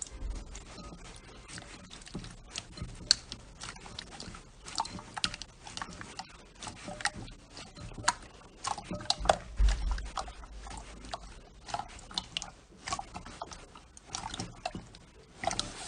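Slime being squished and worked, with wet squelching and irregular sharp clicks and pops, several a second, as air pockets in it burst.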